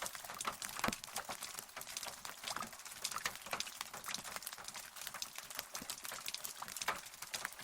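Rain falling, with many close drops striking in irregular sharp ticks over a steady high hiss.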